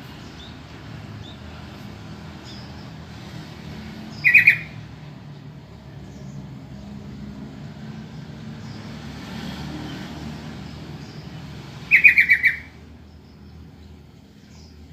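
Yellow-vented bulbul (trucukan) giving two short bursts of quick, harsh chattering notes about eight seconds apart, over a steady low rumble.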